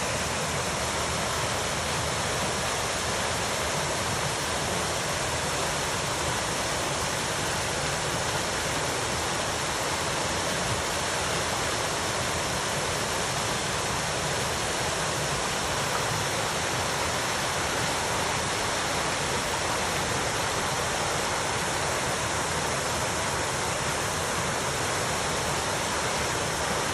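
Steady rushing of water pouring over a small garden waterfall.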